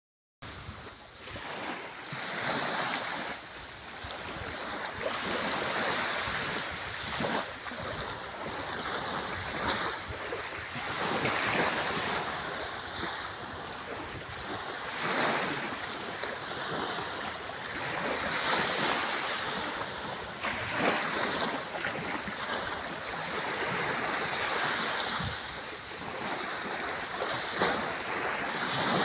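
Sea waves breaking and washing up the shore, the surf swelling and easing every few seconds.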